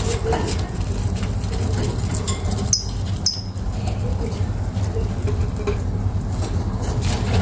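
Lovebirds giving a couple of short, high chirps about three seconds in, over a steady low rumble.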